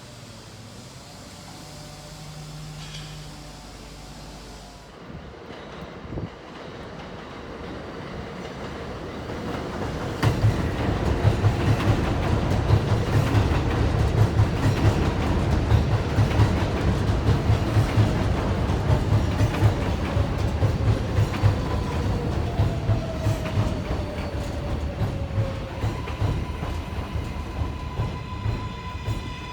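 Kawasaki R188 subway train pulling into the station. It grows louder from about ten seconds in, its wheels clacking rhythmically over the rail joints, with a falling whine near the end as it slows.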